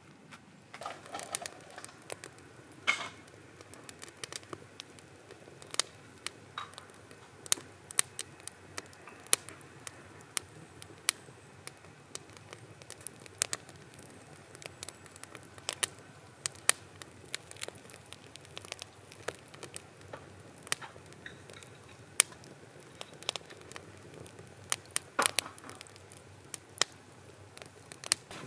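Wood fire crackling, with irregular sharp pops and snaps of varying loudness, a few each second.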